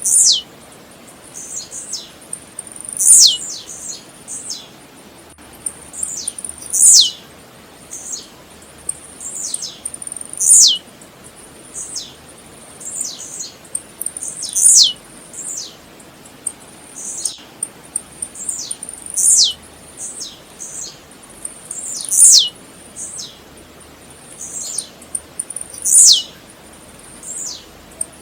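Blue-black grassquit (tiziu) singing: a sharp, high note falling steeply in pitch, loudest about every four seconds, with fainter quick falling chirps in between over a faint steady high hiss.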